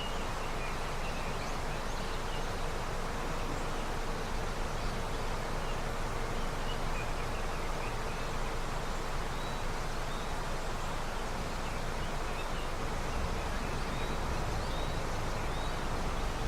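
Snowmelt river flowing steadily, with faint short high chirps scattered through it.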